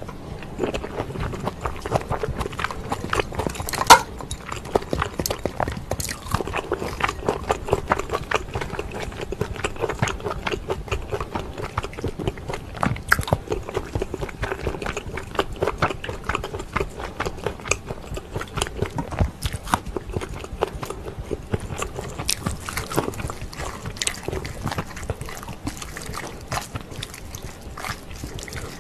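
Close-miked chewing and wet mouth sounds of a person eating pork kimchi stew: a steady run of quick smacks and clicks, with one sharp, louder click about four seconds in.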